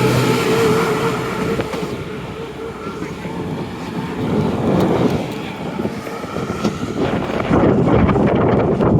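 Chiltern Railways Class 168 Clubman diesel multiple unit pulling out, its underfloor diesel engines running with a steady drone in the first second, then steady rumbling noise from the moving train that grows rougher and louder near the end.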